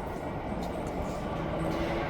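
Tokyo Metro Ginza Line subway train approaching the platform, a steady low rumble that builds slowly.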